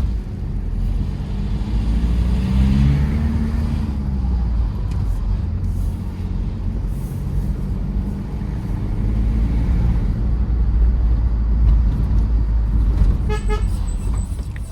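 Tata Safari Storme's diesel engine and road noise while driving, a steady low rumble whose pitch shifts for a moment early on. A brief pulsed horn toot sounds near the end.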